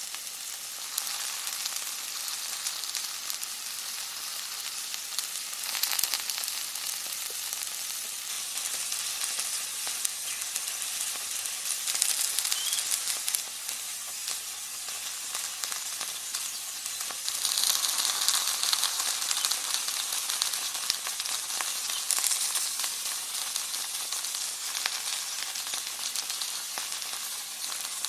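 Food frying in hot oil in a pan, a steady sizzle that swells louder several times, most strongly about two-thirds of the way through.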